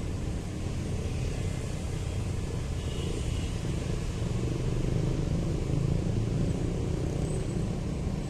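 Steady low rumble of vehicles running, with no distinct events.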